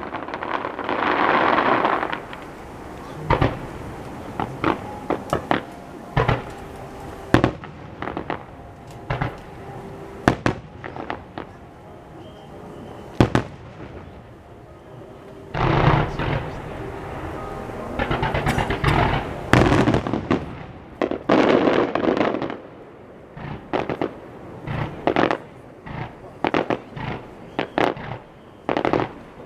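Starmine fireworks: aerial shells bursting in rapid volleys of sharp bangs. Dense crackling bursts come near the start and again through a long run in the second half.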